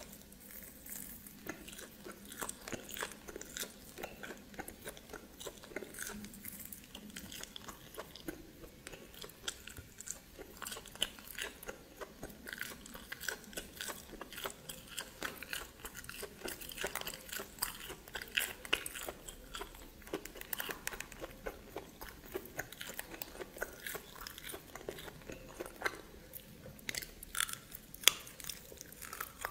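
Close-miked chewing and biting of steamed snake meat: a dense, irregular run of small crunches and wet clicks, several a second.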